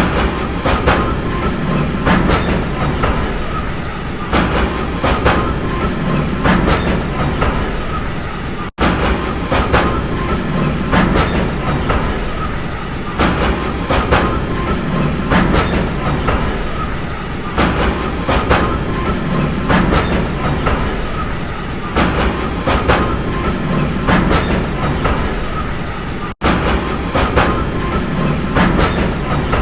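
Train rolling along with a steady rumble, its wheels clacking over rail joints in pairs every second or two. The sound cuts out for an instant twice.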